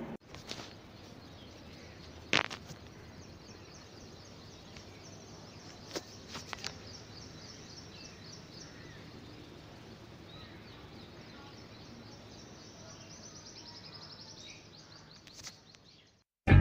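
Quiet outdoor background with faint high bird chirping, broken by a few sharp clicks, the loudest about two seconds in. It cuts off just before the end.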